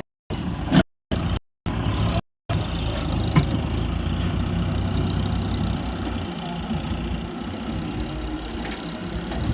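Heavy diesel machinery engine running steadily, with a few light knocks. The sound cuts out to silence several times in the first two seconds.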